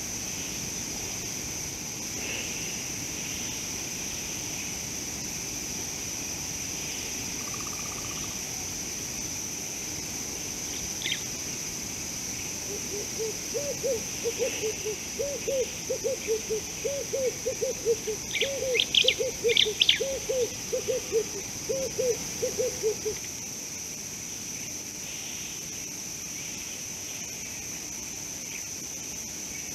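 A bird calling a long run of low hooting notes, about two a second, for some ten seconds from about a third of the way in, over a steady high drone of insects. A few short, high chirps come near the middle.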